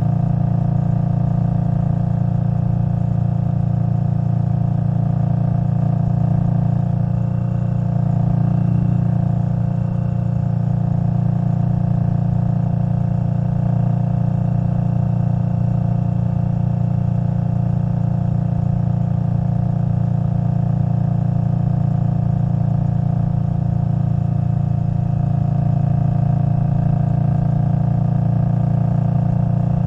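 Indian Scout Bobber Twenty's liquid-cooled V-twin engine, fitted with a Vance & Hines Twin Slash exhaust, running at a steady engine speed while the motorcycle cruises. The deep exhaust note holds an even pitch throughout.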